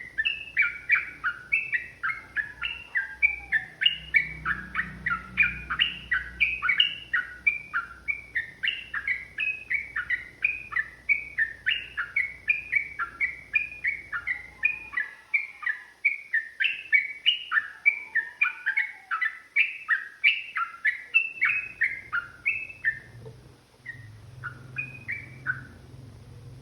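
Yellow-vented bulbul (trucukan) singing a long, fast run of chattering notes, about three a second, thinning to a few scattered notes near the end.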